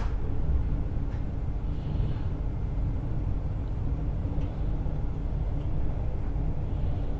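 Steady low rumble of a passenger train running on the rails, heard from inside the carriage, with a few faint clicks.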